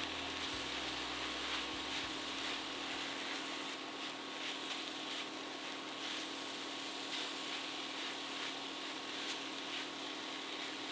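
Octopus and vegetables sizzling in a hot pan while two silicone spatulas stir and toss them, with soft scrapes and light taps against the pan.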